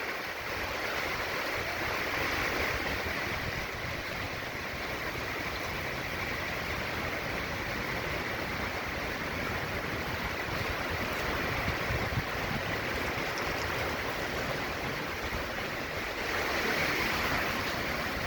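Hurricane wind and driving rain, a steady rushing noise that swells in gusts a few seconds in and again near the end.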